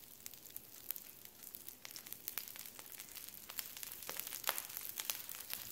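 Breaded fish fillets frying in oil on a flat-top griddle: a steady sizzle with frequent sharp crackles and pops of spitting oil.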